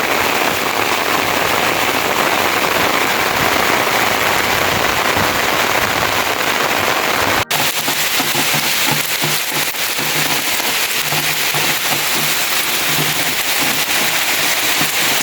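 Heavy rain pouring down, a loud, dense, even hiss with a brief sudden drop-out about halfway through.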